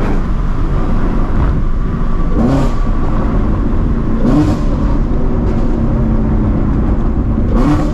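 2016 Shelby GT350's 5.2-litre flat-plane-crank V8, catless with long-tube headers, running steadily. Three short rises and falls in engine pitch about two seconds apart, each with a flare of harsh exhaust noise.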